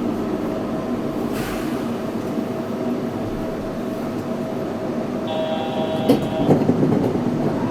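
Yurikamome 7300-series rubber-tyred automated guideway train running, heard from inside the car: steady running noise with a constant motor whine. About five seconds in, a brief high-pitched tone sounds, followed by a couple of knocks.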